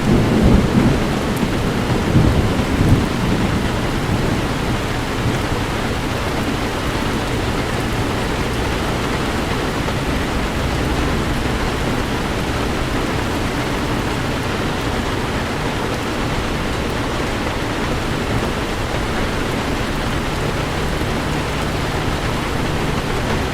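Heavy rain pouring steadily, with a low rumble of thunder during the first three seconds.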